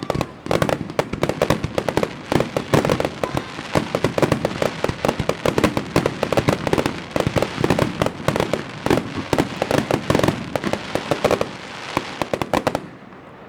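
Fireworks going off in a dense, rapid barrage of bangs and crackles, many each second, which thin out and die away near the end.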